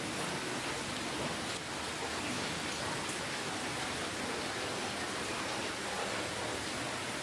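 Steady rainfall: an even hiss of rain with scattered drops pattering.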